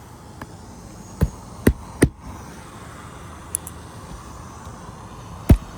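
Cap nails being hammered through asphalt shingles: three quick sharp strikes about a second in, then another near the end.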